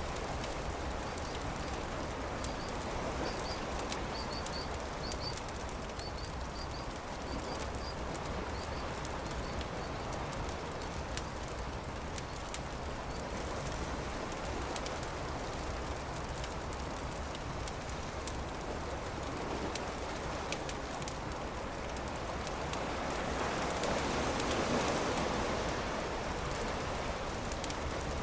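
Campfire crackling with sharp snaps over a steady rushing wash that swells briefly near the end. A bird gives a run of short high chirps during the first several seconds.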